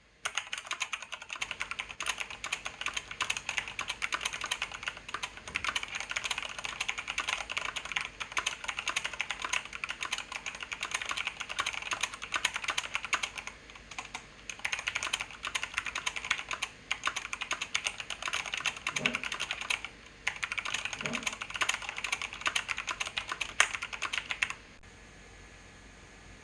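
Fast typing on a computer keyboard: a dense, steady clatter of key presses with a few brief pauses, stopping suddenly near the end.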